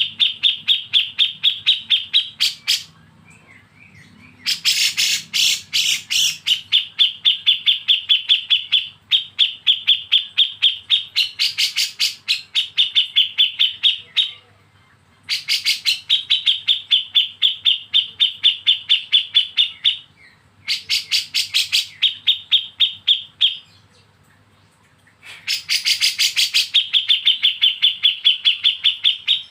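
Caged songbird giving 'besetan' song: rapid rattling runs of sharp, evenly repeated notes, about six a second, in bursts of a few seconds with short pauses between.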